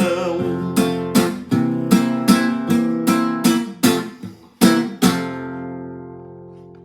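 Acoustic guitar strumming a run of closing chords, then a final chord left to ring and fade away, ending the song.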